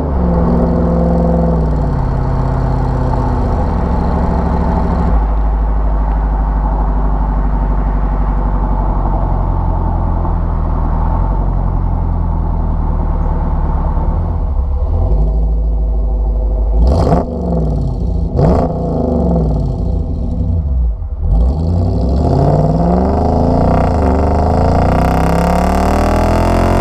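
5.7 Hemi V8 running through a Solo Performance MR212-HJ stainless steel exhaust with a deep, steady rumble. The engine pitch steps down near the start, holds steady for a long stretch, then rises and falls quickly several times in the second half.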